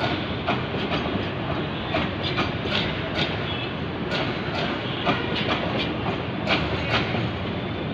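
Train running on the rails: a steady rumble with frequent, irregular clicks and clatter from the wheels.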